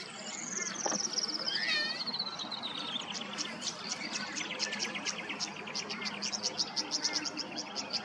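Tawny grassbird singing: a long, rapid trill that falls steadily in pitch over about three seconds, then runs on as a lower series of quick notes. A fast, high ticking carries on underneath throughout.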